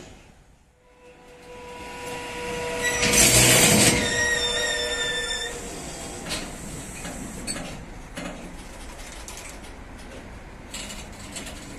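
Freight train of loaded double-deck car-carrier wagons rolling slowly past. A metallic squeal of several high tones rises to its loudest about three to four seconds in and fades by about five and a half seconds, then the wagons keep passing with a steady rolling noise and occasional clicks.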